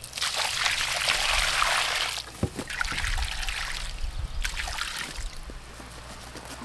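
Water poured onto the soil around a freshly transplanted seedling: one pour of about two seconds, then two shorter splashes.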